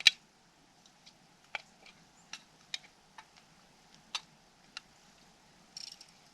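Scattered sharp clicks and taps of small objects being handled. A loud click comes right at the start, and a quick rattle of several comes near the end.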